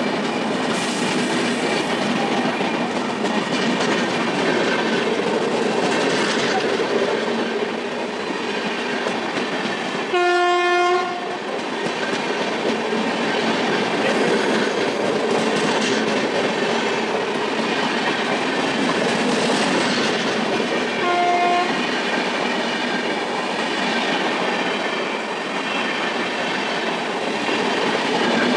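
Indian Railways express train running past at speed, its wheels and coaches making a continuous rushing clatter on the rails. The locomotive horn sounds once for about a second around ten seconds in, and gives a short second blast around twenty-one seconds in.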